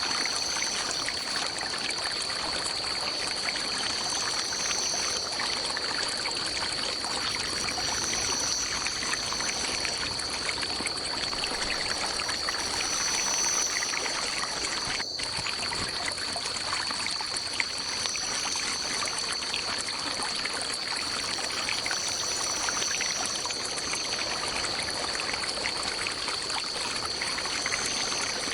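Stream water trickling and running, a steady even rush. Over it runs a steady high-pitched tone, with fainter higher swells that come and go every few seconds.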